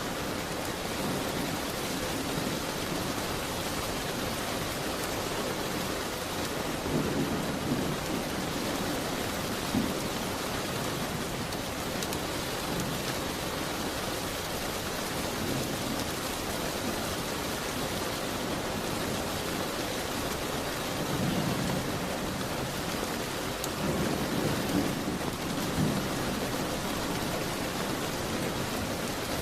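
Steady rain falling against a window, with a few low rumbling swells and an occasional sharp crackle from a wood fire in a fireplace.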